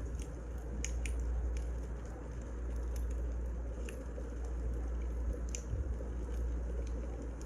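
Wood fire burning, with a steady low rumble and irregular sharp crackles and pops of the firewood.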